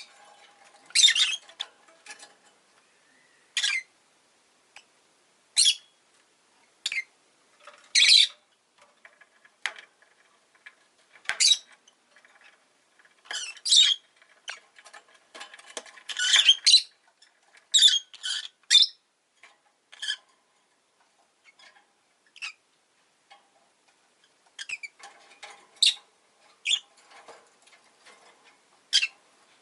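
Rosy-faced lovebirds giving short, sharp, high-pitched chirps and squawks at irregular intervals, bunched more closely together in places.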